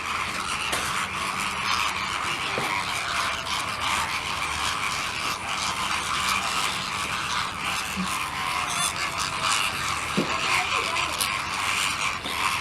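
A flock of flamingos calling: a dense, steady chatter of many overlapping short calls.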